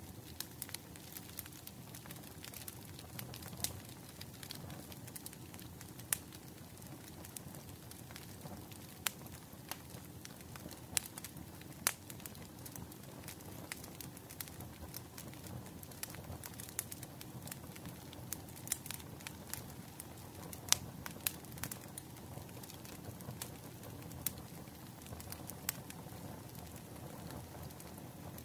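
Wood fire crackling: a steady low rush of flames with frequent sharp, irregular pops and snaps.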